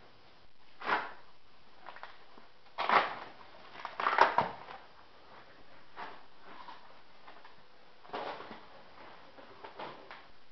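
Handling noises from an RC jet kit's parts and packing: a handful of short rustling, scraping sounds, a second or two apart, the loudest about three and four seconds in.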